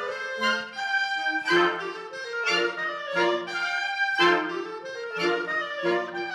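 Concert wind band of brass and woodwinds playing, with strong accented chords landing roughly once a second.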